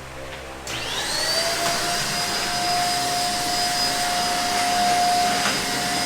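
Vacuum cleaner switching on about a second in. Its motor whine rises quickly and settles into a steady high whine over a rushing airflow, after a lower steady hum.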